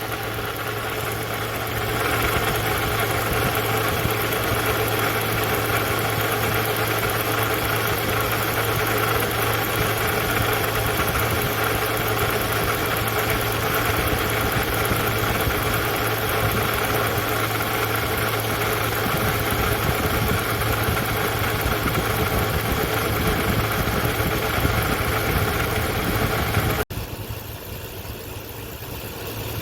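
Toyota Crown Hybrid (210 series) engine running with a rattling noise from a failing water pump. About 27 seconds in it cuts to the same engine with a new water pump, running quieter with the rattle gone.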